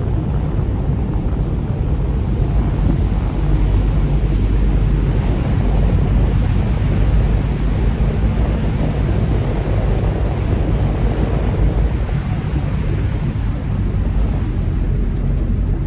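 River tour boat under way: its engine running with a steady low hum, water rushing along the hull, and wind buffeting the microphone.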